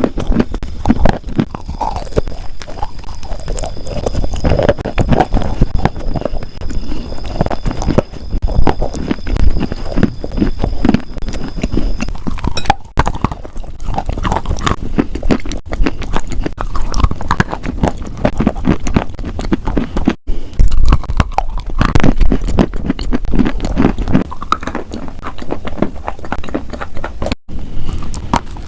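Loud, close-miked crunching and chewing of something crunchy, a rapid crackle of bites and chews, broken by a few abrupt splices.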